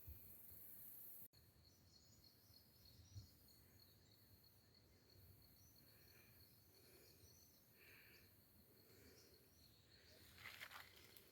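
Faint forest ambience: an insect trilling steadily at a high pitch, with a few faint chirps, and a couple of footsteps near the end.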